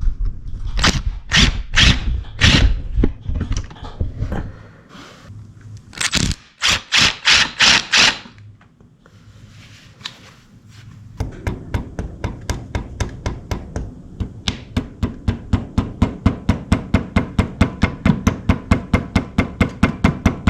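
Hand-tool work on a motorcycle engine's oil pump. Irregular scrapes and knocks give way to a run of five quick strikes, then a lull, and from about halfway on a fast, even clicking, about four or five a second, over a low hum.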